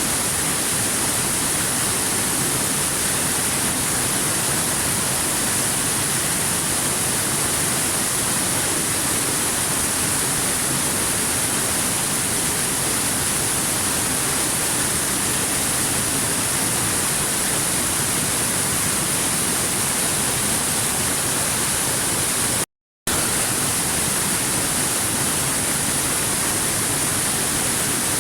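Waterfall rushing: a steady, even wash of water noise with a strong hiss at the top, broken once by a split-second gap of total silence about four-fifths of the way through.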